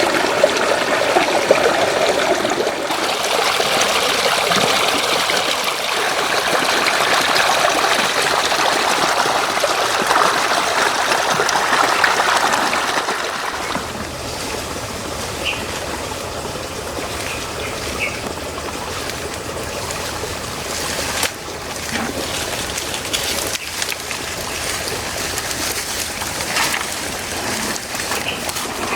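Floodwater running and trickling in a steady rush, becoming somewhat quieter about halfway through.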